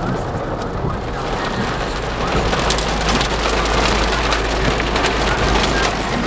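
Heavy rain drumming on a car's roof and windows, heard from inside the cabin, with a steady low rumble beneath. It grows louder and crisper about a second and a half in, with many sharp ticks of drops striking.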